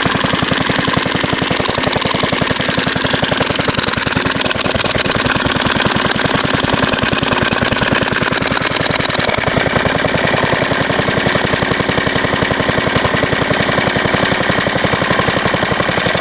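1938 Fairbanks Morse Z style D single-cylinder engine running with rapid, sharp, steady exhaust beats. It is still misfiring and running a little faster than it usually does.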